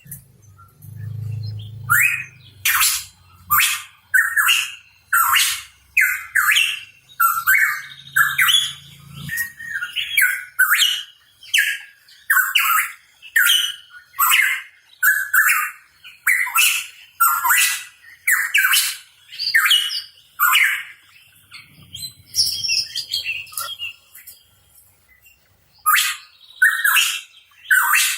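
Pitohui calling: a long run of loud, harsh notes, each sweeping downward in pitch, repeated about one to two times a second, with a brief lull near the end.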